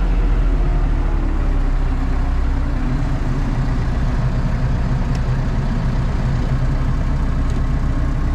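Tractor engine running steadily, just after the topper has been switched off at the end of the job.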